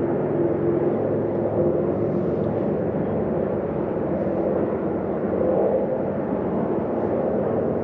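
Boat's outboard motor running steadily, a constant engine drone.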